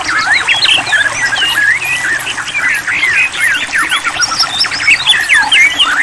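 White-rumped shama song: a dense, continuous stream of quick chirps, whistles and trills that rise and fall in pitch, overlapping one another.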